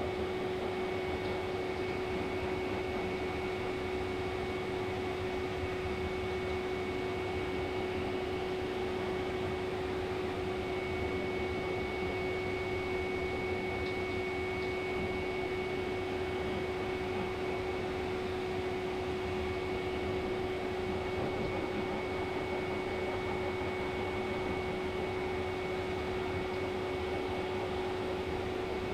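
Pet grooming dryer running steadily: an even rush of blown air with a constant motor hum and a thin high whine.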